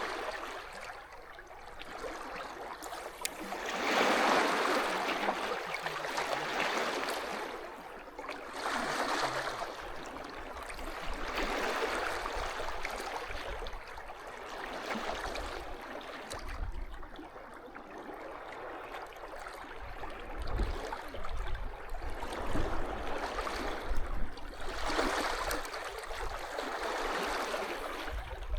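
Small sea waves washing up onto a beach, each wash swelling and fading every few seconds, the loudest about four seconds in and again near the end.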